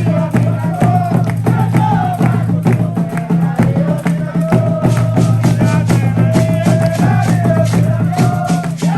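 Candomblé ritual music: a sung chant over a fast, steady beat of percussion and rattles.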